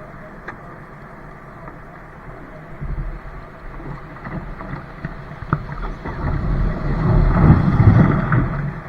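Wind rumbling on the microphone over water on a kayak outing, swelling loudest about seven to eight seconds in, with a couple of brief sharp knocks.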